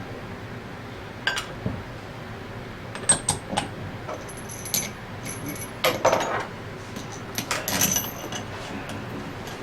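Small metal parts and tools clinking and tapping on a workbench during hands-on reassembly and seal fitting. There are a dozen or so sharp clicks with brief high ringing, bunched around the middle and near the end.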